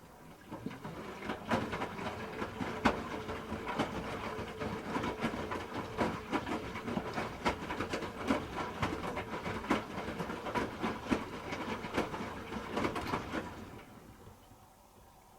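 Hoover H-Wash 300 Plus washing machine drum turning during a rinse, the wet laundry tumbling with many irregular knocks and clicks. It starts about half a second in and fades to a stop near the end.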